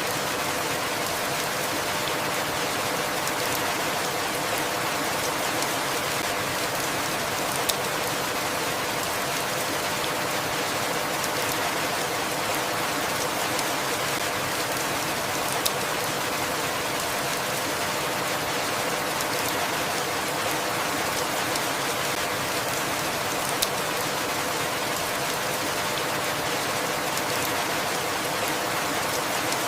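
Steady rain falling, an even hiss with a sharp single tick standing out about every eight seconds.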